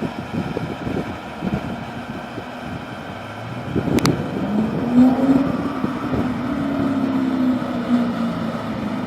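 V8 of a 2004 C5 Corvette with headers, X-pipe and Borla Stinger quad-tip exhaust, its exhaust note coming in about halfway through, peaking, then holding steady as the car drives by. Wind buffets the microphone before it, with a sharp click just before the engine note.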